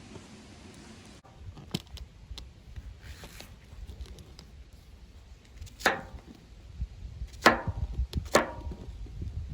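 Knife chopping vegetables on a cutting board: a few light taps, then three sharper cuts in the last few seconds, over a low wind rumble on the microphone.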